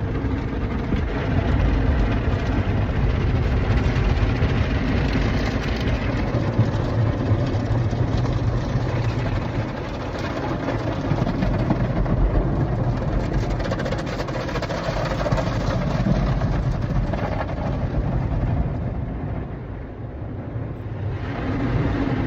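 Automatic car wash working over a car, heard from inside the cabin: a steady rushing of spraying water and spinning brushes against the body and windows, easing off briefly near the end before picking up again.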